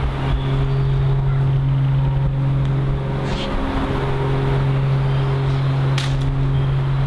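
A steady low mechanical hum, like a running motor, that dips briefly about three and a half seconds in; a single sharp click comes near the end.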